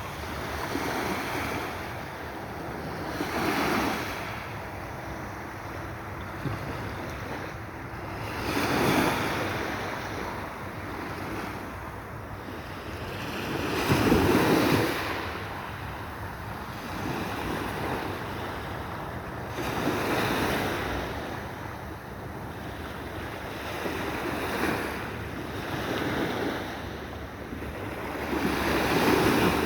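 Sea waves washing in, each swell rising and falling back about every five to six seconds, the loudest about halfway through, with wind rumbling on the microphone.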